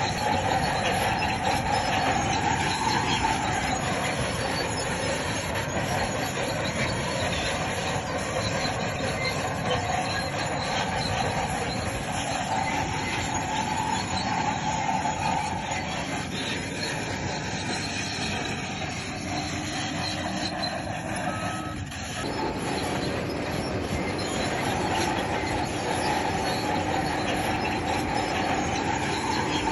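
Crawler bulldozer working stone fill: the engine running under load with a continuous metallic squeal from the steel tracks, which wavers in pitch. The sound dips and changes abruptly about two-thirds of the way through.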